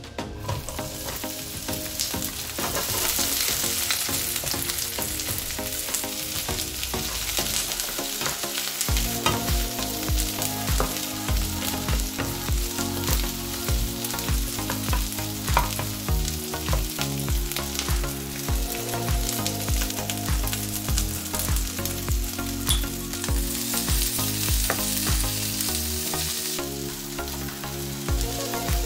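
Sliced banana shallots sizzling as they fry in hot olive oil in a nonstick pan, stirred with a spatula. Background music with a steady beat comes in about nine seconds in.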